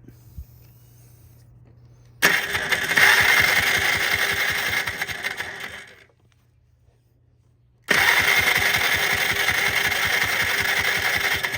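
The starter of a 1995 Polaris Trail Boss 250 ATV cranks its engine over in two runs of about four seconds each, a couple of seconds apart, without it catching. This is a spark check with a new plug, on a machine that cranks but won't start.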